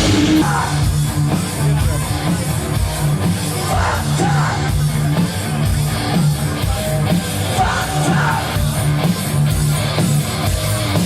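Live rock band playing a wordless heavy passage: guitars, bass and regular drum hits.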